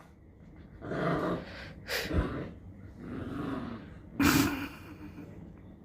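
A puppy making four short, breathy sounds. The last, near the end, is the sharpest and loudest.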